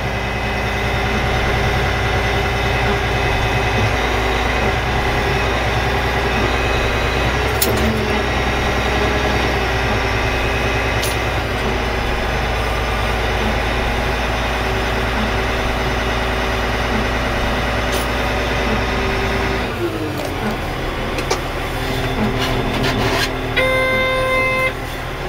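Caterpillar 980G wheel loader's diesel engine running steadily under throttle. About twenty seconds in it drops back with a falling pitch, and near the end an electronic warning beeper sounds.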